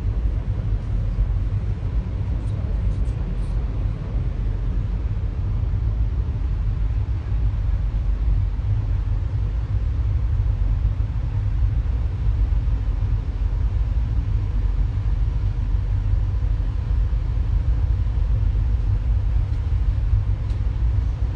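Steady low rumble of a moving train heard from on board, with a constant noisy rush over it and no change in pace.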